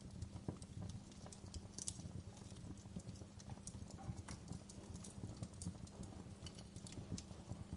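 Wood fire crackling: irregular sharp snaps and pops, several a second, over a low rumble of burning.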